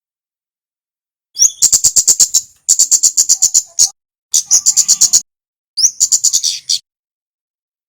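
Male kemade (kemlade merah) bird calling in four fast runs of sharp, high chips, about ten a second. Some runs open with a short upward-sliding note.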